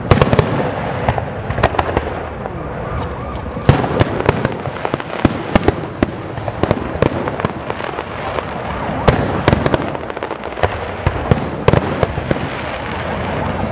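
Aerial firework shells bursting overhead: many sharp bangs at irregular intervals over a continuous rumble of further bursts.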